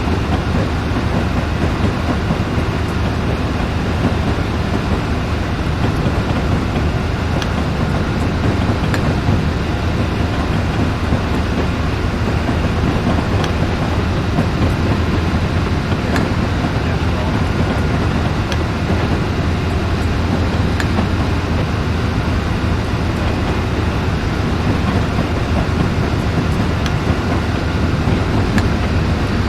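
Steady low rumble of a moving vehicle, unchanging throughout, with faint scattered ticks.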